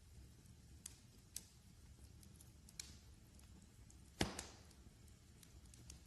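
Wood fire crackling faintly over a low steady rumble, with scattered sharp ticks and one louder pop about four seconds in.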